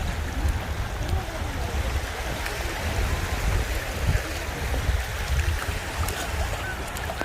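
Wind buffeting the microphone, a gusty low rumble, over the rushing wash of sea waves at the shoreline.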